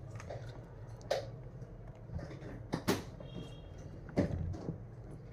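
A few soft, sharp knocks and taps, four in all, with a brief faint high chirp about three seconds in.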